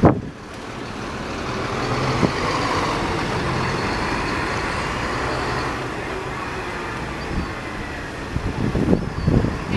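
Class 450 electric multiple-unit train passing over a level crossing: a steady rush of wheel and motor noise with a faint whine, building over the first two seconds and easing off about six seconds in.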